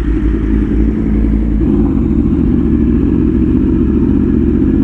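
Sport motorcycle engine running while riding at a steady cruise, loud and continuous, with a slight shift in its note about two seconds in.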